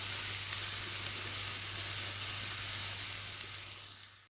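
Chopped onion, garlic and dried red chillies sizzling in hot sesame oil in a pan, a steady frying hiss that fades out near the end.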